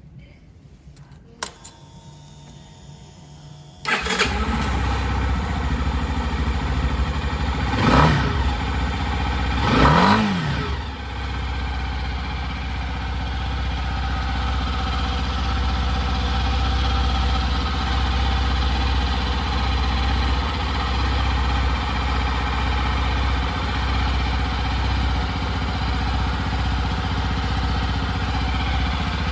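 Yamaha Touring Serow 2020 final model's 249 cc air-cooled single-cylinder engine: a click and a faint hum, then the engine starts about four seconds in. It is revved twice, each time rising and falling back, and then settles into a steady idle.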